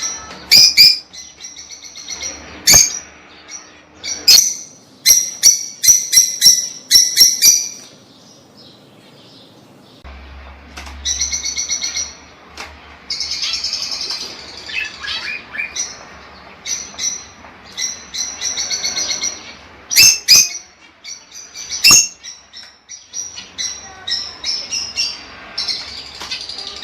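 Lovebirds chirping and chattering in rapid high-pitched runs, broken by a few short, piercing shrieks.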